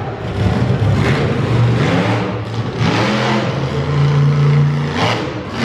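Monster truck engine revving hard, its pitch surging up and down several times, with one high rev held for about a second.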